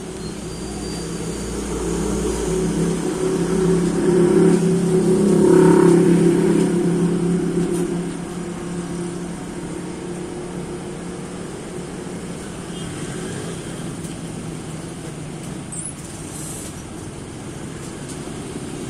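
Fishing boat engine running steadily, swelling to its loudest about five seconds in, then settling back to an even run.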